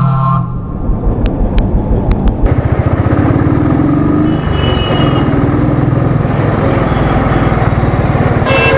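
Royal Enfield Thunderbird's single-cylinder engine running on the road, its steady firing pulse filling in and holding from about two and a half seconds in, under a rush of wind noise.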